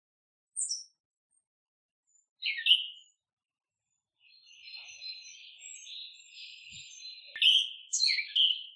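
Small songbirds chirping. A few short separate chirps are followed by about three seconds of continuous twittering, and the passage ends with two loud chirps.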